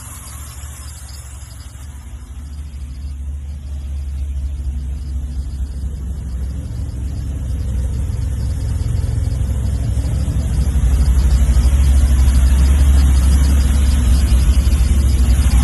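Fuel-injected 383 small-block Chevy V8 running through a Magnaflow exhaust, a steady deep rumble. It grows steadily louder for about the first ten seconds, then holds level.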